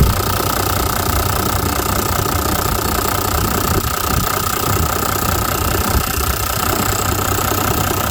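Toyota 1HD-FTE 4.2-litre straight-six turbo diesel idling steadily, just after being started.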